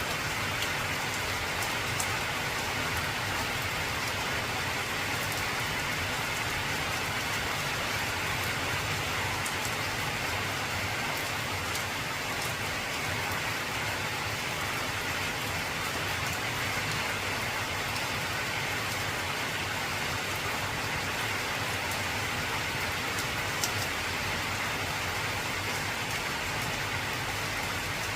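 Heavy rain falling steadily on an old corrugated zinc roof, with a couple of sharper single drop ticks.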